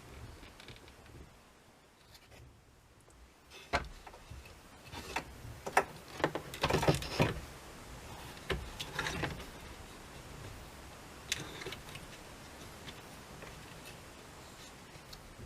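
Irregular clicks and knocks of hard parts being handled, bunched in the middle, with quiet stretches between.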